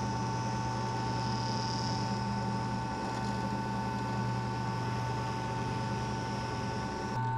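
Workshop machine's electric motor running steadily, a constant hum with a steady whining tone above it.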